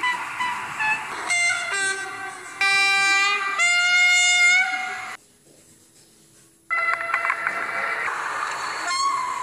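A series of train horn blasts from different trains, spliced one after another; the loudest are two long chord blasts a few seconds in. About halfway through there is a brief break of near silence before another horn sounds.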